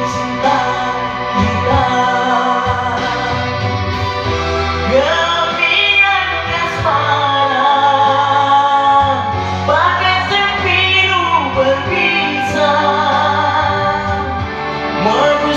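Karaoke singing: a voice sings long, gliding held notes over a music backing track with a steady bass.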